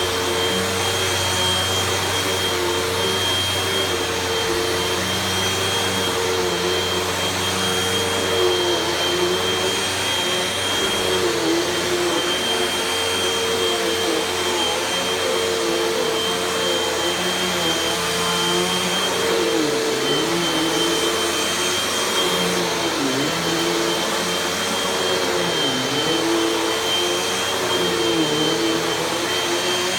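Hoover vacuum cleaner running steadily while vacuuming a low-pile carpet, a steady motor hum with a high whine. Its pitch dips briefly a few times in the second half.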